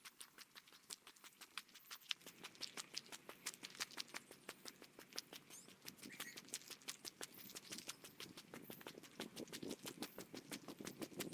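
Footsteps on a forest trail, sped up threefold so that the steps come as a faint, quick, even patter of several light crunches a second.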